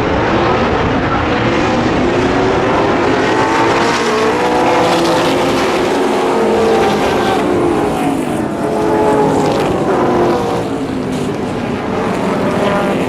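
Racing muscle cars' engines at full throttle as a pack passes, several engine notes overlapping and rising then falling in pitch as the cars go by.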